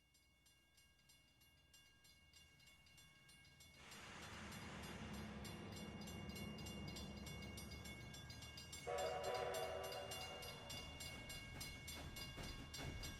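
Train running, its rumble swelling in after a quiet start, with a loud multi-tone blast of the train's whistle about nine seconds in.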